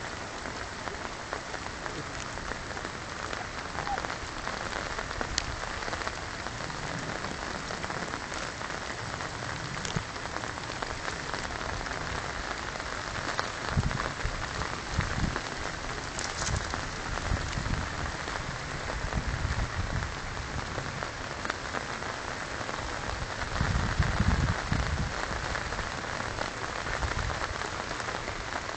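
Steady rain with rushing water in woodland, an even continuous hiss, with a few low rumbles about halfway through and again near the end.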